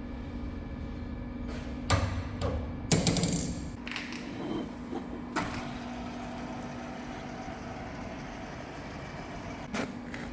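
Steady machine hum with a few sharp metallic clanks and knocks. The loudest clank comes about three seconds in and rings briefly; others fall around two seconds, five seconds and near the end.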